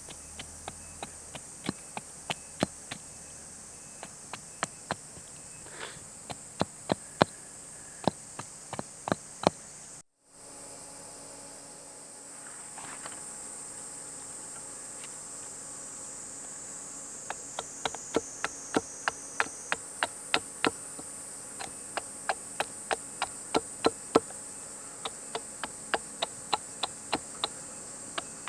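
Wood campfire crackling with sharp, irregular pops over a steady high drone of insects; the sound cuts out briefly about ten seconds in.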